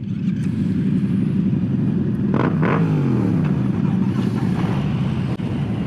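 Motorcycle engines running at low speed, led by a Harley-Davidson Low Rider S's Milwaukee-Eight V-twin, with an engine note falling in pitch about two and a half seconds in.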